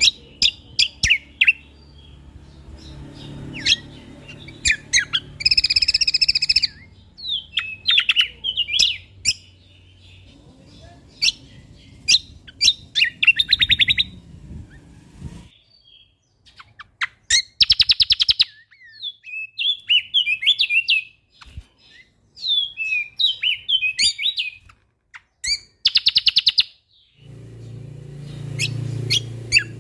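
Cucak kombo (kecial kombok) songbird singing a busy masteran song: quick sharp chirps, twittering phrases and several fast buzzy rattling trills, in bursts with short pauses. A faint low hum sits under the first half.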